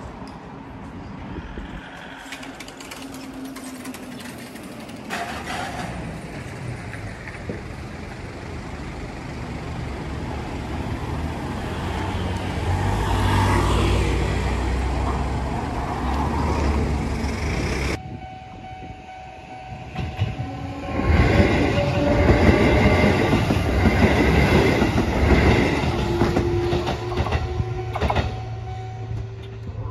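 Sanyo Electric Railway train running past on the line and pulling away, its wheels clattering with steady whining tones over the top, loudest for several seconds in the second half. Earlier, a low rumble builds and fades.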